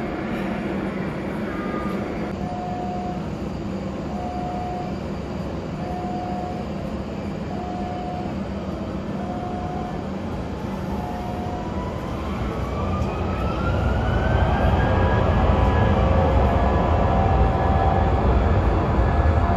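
Electric train with a steady running rumble and six short beeps about 1.7 seconds apart. Then a whine rises in pitch and the rumble grows louder as the train gathers speed.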